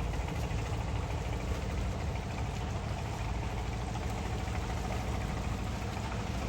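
An engine running steadily at idle, a low unbroken hum.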